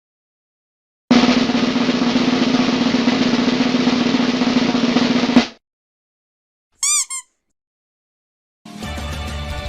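Snare drum roll lasting about four seconds, then cutting off sharply. A short two-note pitched blip follows, and music begins near the end.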